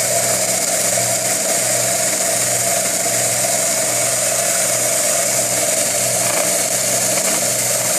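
Homemade belt sander, built around an old bandsaw's electric motor, running steadily: a constant motor hum under an even whir from the spinning belt.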